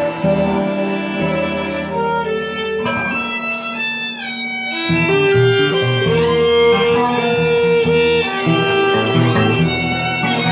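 Acoustic guitar and violin playing a free improvised duet: the guitar plucks and strums while the violin slides down in pitch around the middle, then holds long notes.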